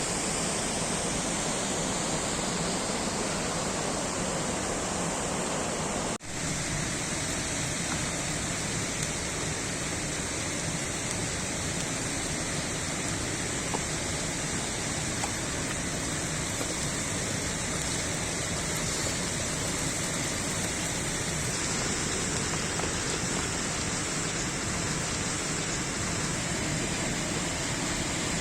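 Steady rushing of a waterfall, an even wash of water noise, with a brief break about six seconds in.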